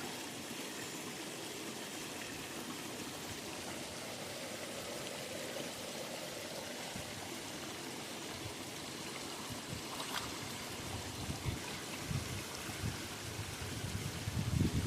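River water flowing steadily, with a few soft low bumps near the end.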